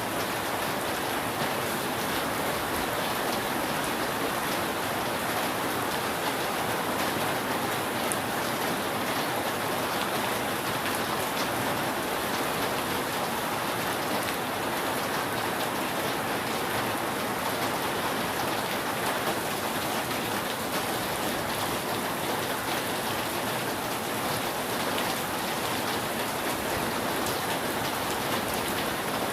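Steady rain falling on a roof: a dense, even patter that holds at one level throughout.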